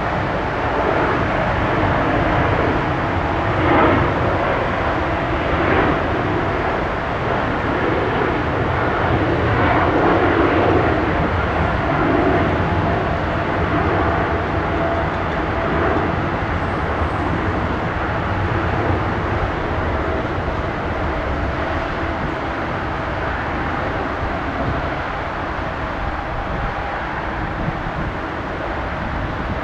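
Four jet engines of a Boeing 747 heard as it passes: a steady, loud rush with a faint whine, loudest about ten seconds in and slowly easing off afterwards.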